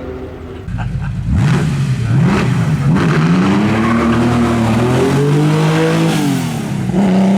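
Flat-six engine of a Porsche 904 hillclimb special accelerating hard from low revs. The pitch climbs through the gears with short dips at the shifts, then drops near the end and settles to a steady note.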